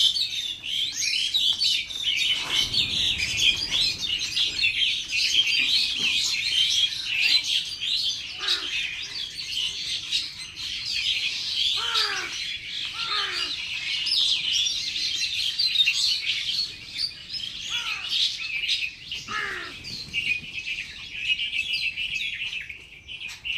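A flock of small birds chirping and twittering without pause, high-pitched and dense. A few lower, falling calls stand out about halfway through and again a little later.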